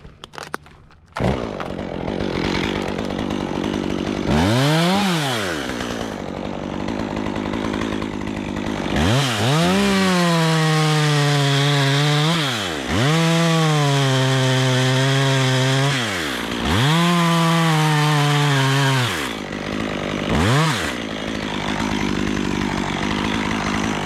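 Stihl chainsaw starting up about a second in, then idling between several revs. Four of the revs run a few seconds each at a steady pitch as it cuts through oak limbs.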